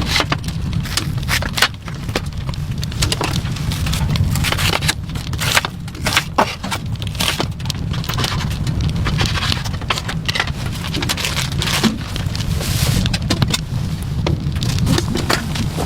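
Rain pattering on a surface: many irregular taps and drops over a steady low rumble.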